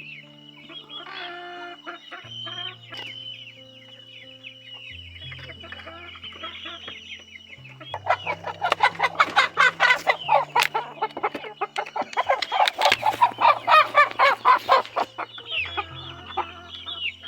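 Chickens clucking and squawking, a dense, rapid run of loud calls through the middle stretch, with quieter clucking before and after.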